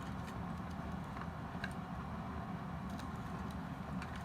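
Scattered light clicks and taps from handling the toy robot's plastic parts during disassembly, over a steady low hum.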